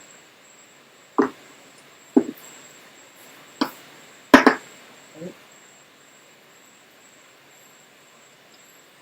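A handful of short knocks and clicks from kitchen utensils and containers being handled, about five of them spread over the first five seconds, the sharpest about four and a half seconds in.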